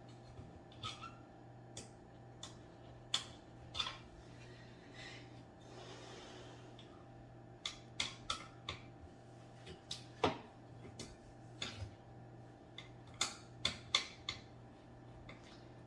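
Parts and packaging of a flat-pack coffee table being handled: scattered light clicks, taps and rustles, in small clusters, over a steady low hum.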